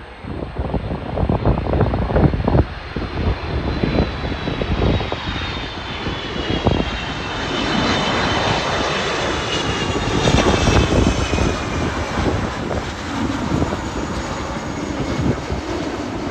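Boeing 777 jet airliner's engines going by, a loud, steady rush of jet noise with a high whine that glides down in pitch as it passes.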